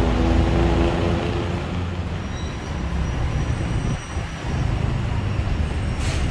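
Busy road traffic: a steady rumble of passing cars and buses, with one vehicle's engine note standing out in the first second or so.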